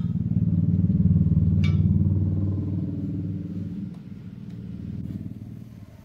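Maruti Suzuki Ertiga's right front drive shaft (axle) turning with a low, rapidly pulsing hum that swells about a second in and fades after about four seconds: the noise of its damaged axle bearing.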